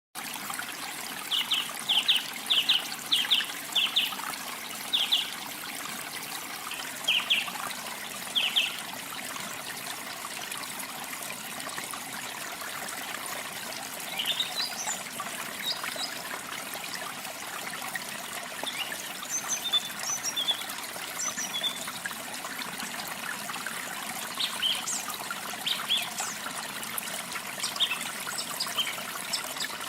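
Steady rush of falling water from a waterfall, with small birds calling over it: a quick series of short repeated notes in the first nine seconds, then scattered higher chirps and trills.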